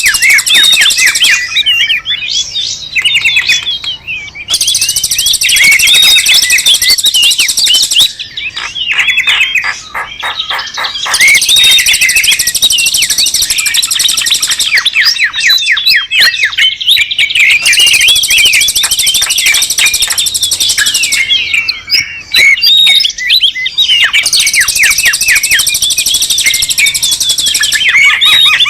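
Bird-lure recording of many small birds chirping and trilling rapidly and noisily all together. A shrill high buzz joins in for a few seconds at a time, over and over.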